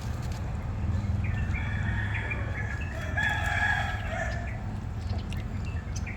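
A long drawn-out animal call of about three seconds, loudest near the middle, with a few short chirps, over a steady low hum.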